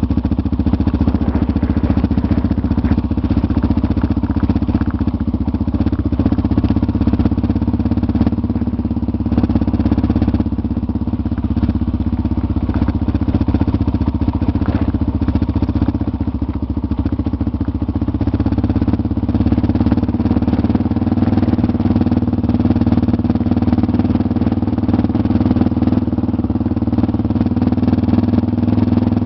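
Motorcycle engine running at a steady pitch while under way.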